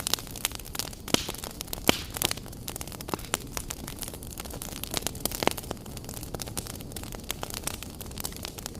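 Wood fire crackling, with irregular sharp snaps and a few louder pops over a steady low hiss.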